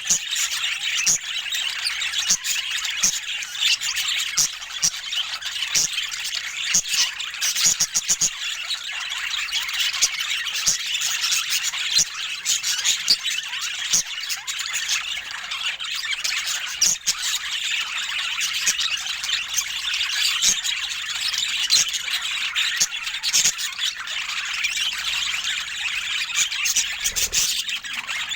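Budgerigars chattering, a dense, continuous mix of overlapping chirps, squawks and warbles from many birds at once.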